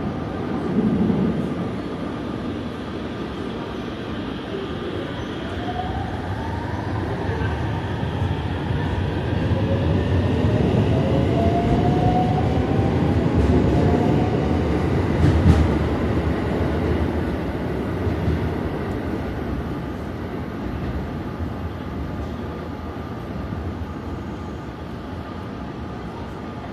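521 series electric train pulling away, its traction motors whining in several tones that climb steadily in pitch as it speeds up, over a rumble of wheels on rail. The sound grows louder, gives a single knock a little past the middle, then fades as the train draws away.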